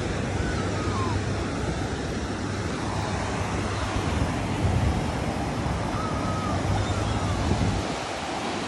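Ocean surf washing on the shore, a steady rush with wind buffeting the microphone as a low rumble.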